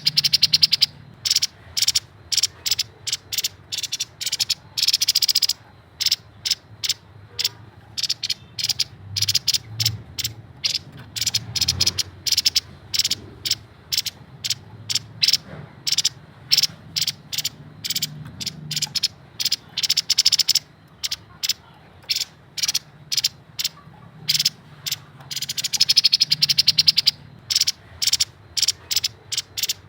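Grey-headed babbler calling: series of short, sharp, dry notes delivered in fast stuttering bursts, over and over, with the densest runs near the start and about 25 to 27 seconds in.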